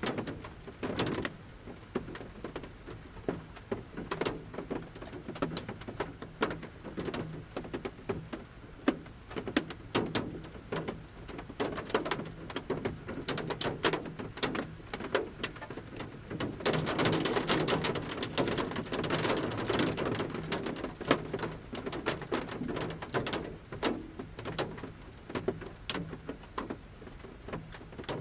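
Large raindrops falling from the forest canopy onto the roof of a camper bus, heard from inside: irregular single taps and pattering, thickening into a denser patter for a few seconds past the middle.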